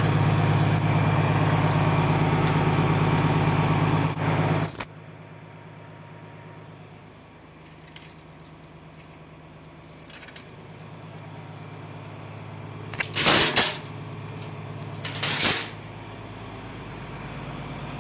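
A motor runs with a steady hum, then shuts off abruptly about five seconds in. Later come two brief metallic clatters, about two seconds apart.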